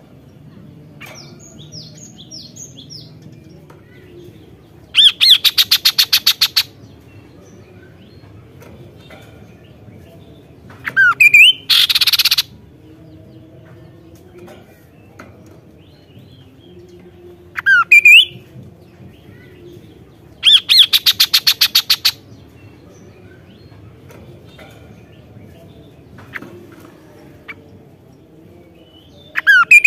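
Kaso-kaso songbird singing loudly in separate phrases every few seconds: a fast rattling trill of about a second and a half, and short rising whistles that run into a harsh buzzy note. Faint, thin chirps come early on.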